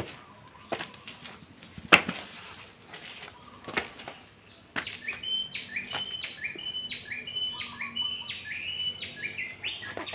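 A few scattered clicks and knocks, then about five seconds in a bird starts a rapid series of short, falling chirps, several a second.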